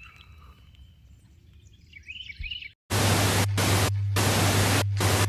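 Faint outdoor background with a few bird chirps. Then, about three seconds in, a loud static-like hiss cuts in over a steady low hum, breaking off briefly three times.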